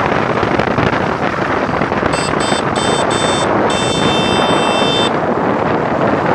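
Heavy wind rush over the microphone while riding, with a vehicle horn honking several short times about two seconds in, then held for over a second.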